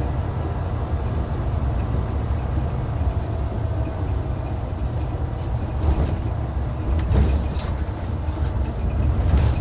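Hyundai D6CC Powertec 380 straight-six diesel of a Hyundai Universe coach running under way, a steady low drone with road rumble. A few light rattles come in near the end.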